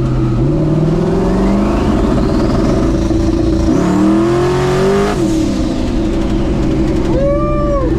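Twin-turbo cammed LS V8 in a Ford truck pulling hard under acceleration: the revs climb, climb again higher, then drop sharply about five seconds in at an upshift.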